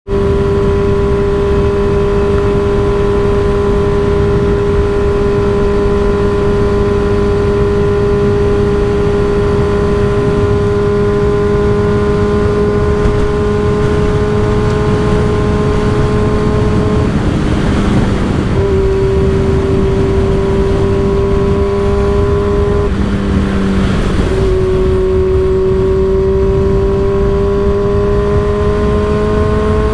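Motorcycle with an M4 aftermarket exhaust running at a steady cruise, the engine note slowly easing down. The note breaks off briefly twice in the second half, as with gear changes, then climbs steadily near the end as the bike accelerates. Heavy wind buffets the microphone throughout.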